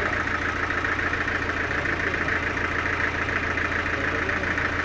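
Sawmill machinery running steadily with an even, pulsing mechanical hum and whir, with no change in load.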